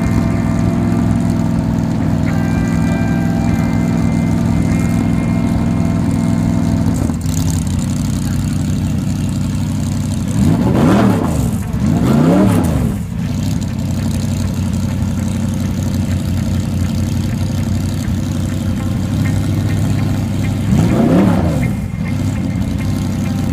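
Mercedes-Benz SLS AMG race car's V8 idling steadily, blipped three times: twice in quick succession about halfway through and once more near the end, each rev rising and falling straight back to idle.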